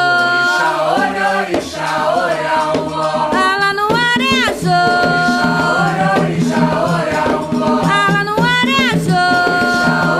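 Candomblé ritual song sung in Yoruba: voices slide up into long held notes over steady hand percussion.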